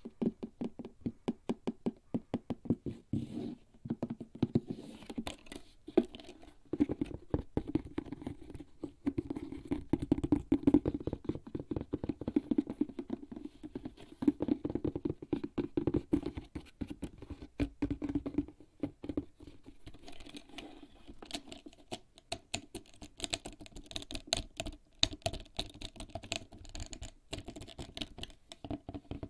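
Fingertips tapping and scratching rapidly on a HERZ leather bag: a fast, dense patter of soft knocks. The knocks turn brighter and lighter about two-thirds of the way through.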